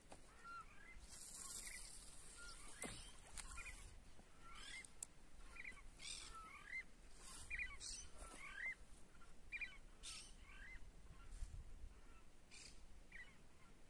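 Faint bird calls: many short chirps, irregularly spaced, over a light outdoor hiss, with a few faint clicks.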